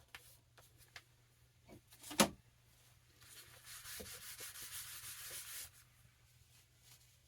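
Hands working on a book during a binding repair: a sharp knock about two seconds in, then a couple of seconds of rubbing against paper or the cover.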